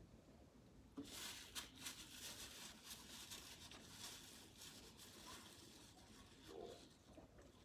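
A person chewing food: quiet, moist crackles and clicks that start about a second in and thin out after a few seconds.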